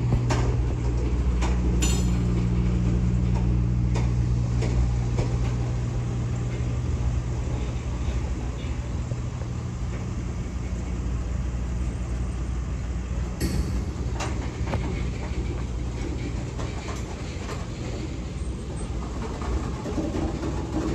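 Freight train of loaded covered hopper cars rolling steadily past, wheels clicking and clanking over the rails, with a couple of sharper metallic clanks. A steady low hum underlies the rumble and fades after about twelve seconds.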